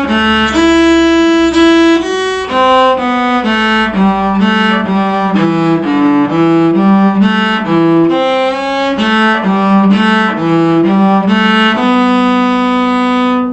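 Bowed string instrument playing a bluegrass fiddle-tune phrase: a run of quick, separate bowed notes that ends on one long held note near the end.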